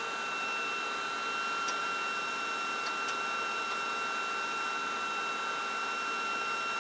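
Flashforge Adventurer 5M 3D printer running steadily with a high, even whine as it loads and extrudes PLA filament through its heated nozzle. A few faint ticks come in about two and three seconds in.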